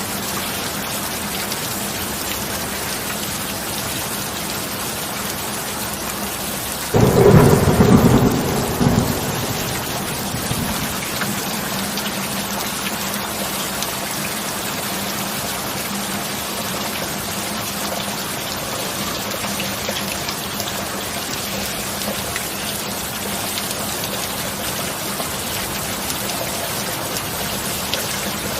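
Steady heavy rain, with a sudden clap of thunder about a quarter of the way in that rumbles for two or three seconds and fades back under the rain.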